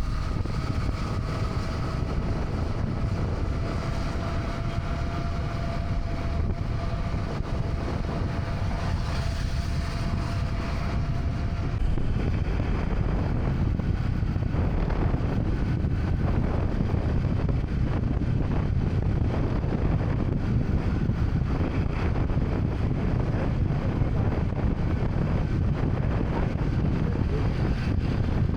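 Motorcycle on the move: wind rushing over the microphone over the engine's steady running, a faint steady whine fading out and the noise getting louder about twelve seconds in.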